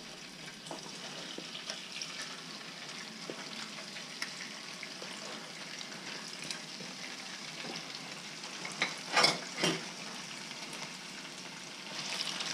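Cubes of redfish frying in shallow hot oil in a skillet, a steady sizzle with small pops as the pieces go in. Two short knocks about nine seconds in, and the sizzle grows louder near the end as the pieces are pushed around with a spatula.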